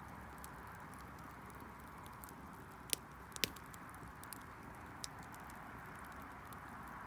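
Wood bonfire crackling over a steady hiss, with scattered small ticks and two sharper pops about three seconds in.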